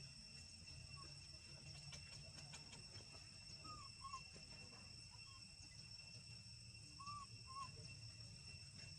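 Near silence: a faint steady high-pitched drone over a low hum, with a few faint short chirping calls, in pairs about four and seven seconds in.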